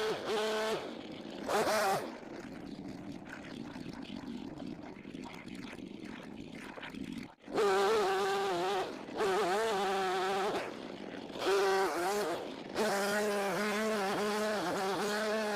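Small gas engine buzzing in uneven spurts of one to three seconds, its pitch wavering, with quieter gaps between.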